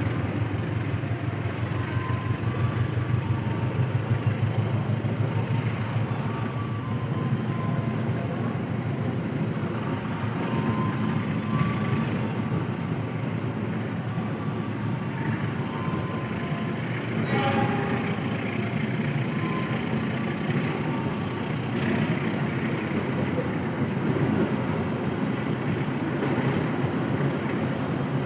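Train at a station in heavy rain: a steady low diesel-locomotive engine hum with a fast even pulse, under an even hiss of rain. A brief higher-pitched tone sounds about two-thirds of the way through.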